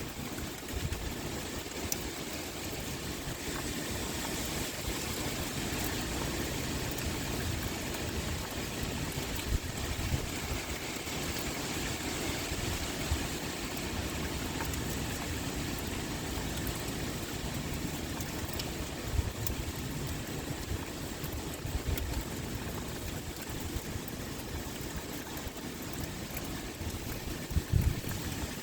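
Pouring rain with wind: a steady dense hiss flecked with the ticks of single drops over a low rumble. A brief low thump stands out near the end.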